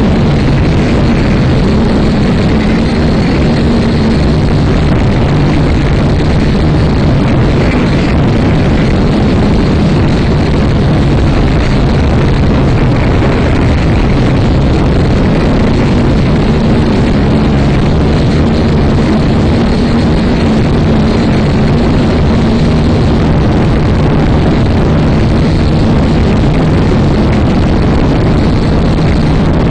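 Syma X5C-1 quadcopter's small motors and propellers running with a steady, slightly wavering whine, mixed with wind rushing over the microphone.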